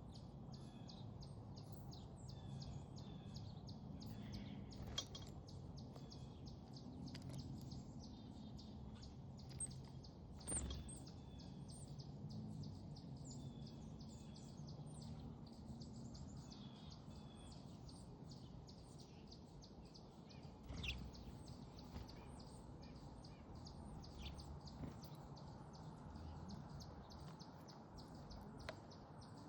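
Faint, rapid, regular chirping of small backyard songbirds over a steady low rumble of distant background noise, with a few brief knocks.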